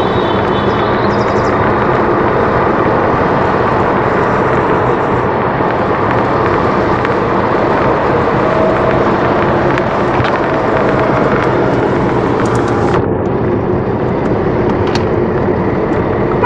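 Vehicle driving along a mountain road: a steady rushing noise of engine, tyres and air, with the sharpest hiss falling away about thirteen seconds in.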